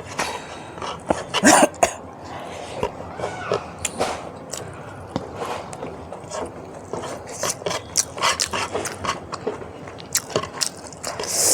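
Close-miked eating sounds from a mukbang of spicy beef innards: chewing, biting and wet lip smacks, a quick irregular run of short clicks, louder in a cluster about a second and a half in and again near the end.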